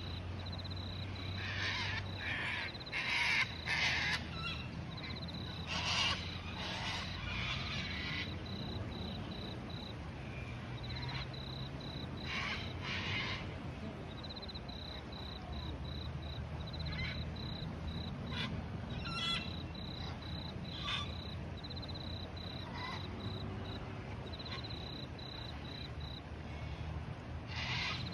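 Birds giving harsh, scratchy calls in bunches over a steady, high pulsing chirp of crickets, with a low rumble underneath.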